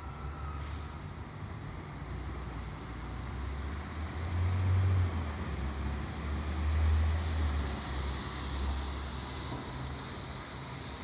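Low rumble of street traffic that swells twice, around four and seven seconds in, over a steady high hiss.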